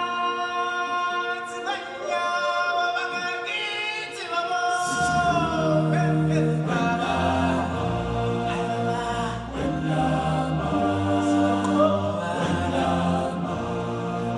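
A choir sings long held chords in the style of an African chant. Low bass parts come in about five seconds in under the higher voices.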